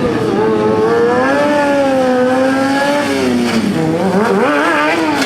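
Motorcycle engine held at high revs, its pitch wavering slowly, then dropping and climbing again near the end as the throttle is worked.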